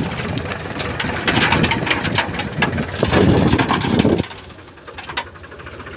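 Loose stones clattering and rumbling as a load of stone is tipped or loaded, over a running diesel engine; the rattle of stone stops suddenly about four seconds in, leaving the engine running more quietly.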